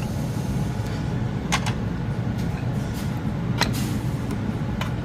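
Steady low rumble of a truck's running engine, with a few sharp clicks and knocks over it.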